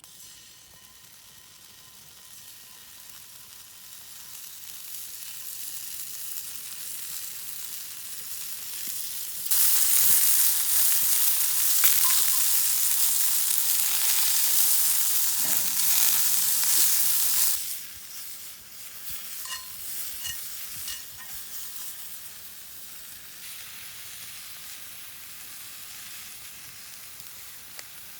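Food frying and sizzling in a hot pan. The sizzle builds slowly, turns suddenly much louder about a third of the way in for several seconds, then falls back to a quieter sizzle.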